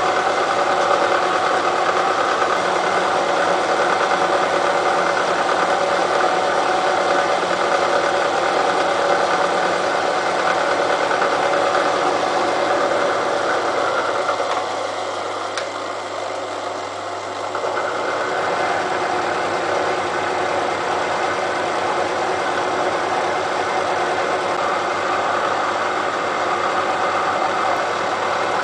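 Elliott Omnimill 00 milling machine running steadily, its cutter taking another light pass across the steel face of a railway-line anvil to clean it up. The sound eases for a few seconds about halfway through, then comes back.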